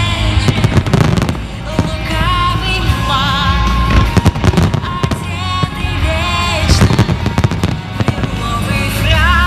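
Fireworks bursting and crackling, with many sharp bangs and a low rumble, over loud music that carries a wavering melody with vibrato.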